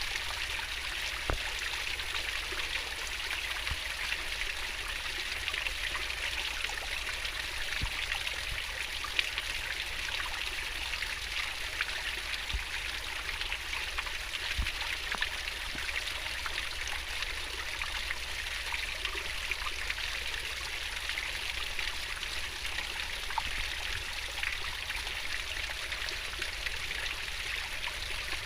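Fast-flowing stream babbling steadily, with small drips and splashes scattered through the rush of water.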